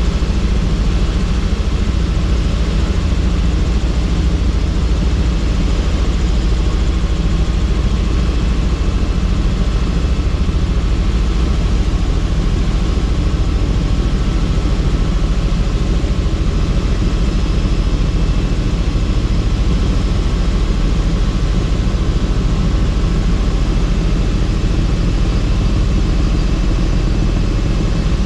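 Helicopter in flight, heard from inside the open, doors-off cabin: a loud, steady drone of rotor and turbine engine with wind rush, unchanging throughout.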